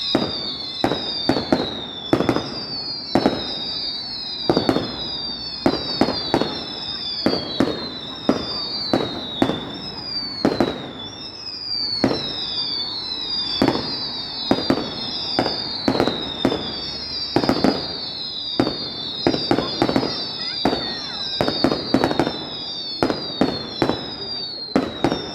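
Fireworks going off in a rapid barrage: sharp bangs every second or so, under many overlapping high whistles, each falling in pitch.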